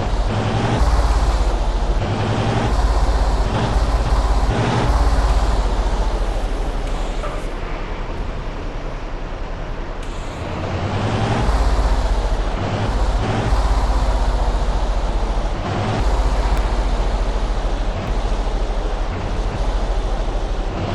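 Truck on the move: a continuous rumble of engine and road noise, heavy in the low end and swelling and easing, quieter for a couple of seconds around the middle.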